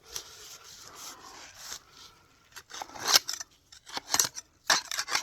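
Digging tool scraping and cutting into wet, mucky soil: a soft scrape at first, then several sharp stabbing strokes about a second apart in the second half.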